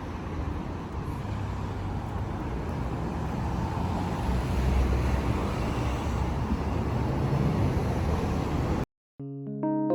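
Steady outdoor rumble of road traffic that cuts off abruptly near the end, followed by a few electric piano notes.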